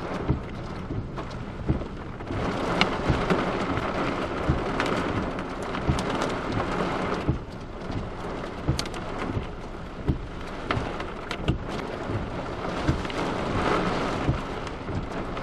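Heavy rain and hail pelting a car: a steady downpour with many sharp, separate hits of hailstones. The downpour swells heavier for a few seconds twice.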